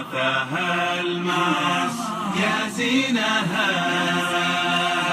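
Unaccompanied Arabic chant (sheilah-style nasheed): layered, echoing voices holding and bending long notes over a steady low vocal drone.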